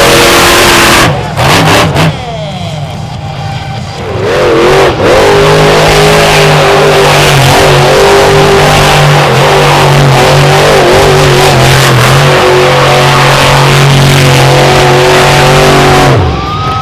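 Monster truck engine revving hard, then held at high revs as a loud, steady drone for about twelve seconds before dropping off near the end. A shorter burst of revving comes at the very start.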